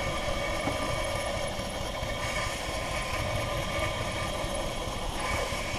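3-inch scale model Fowler steam traction engine in steam, making a steady hiss and running noise.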